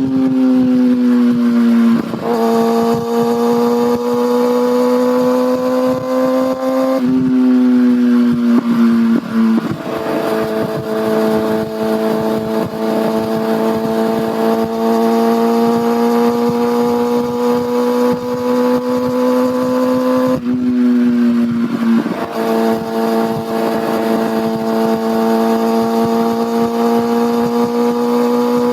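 Kawasaki ZX-6R inline-four engine and exhaust under way, its pitch rising slowly through long steady pulls. It drops or jumps suddenly a few times as the throttle eases or the gear changes.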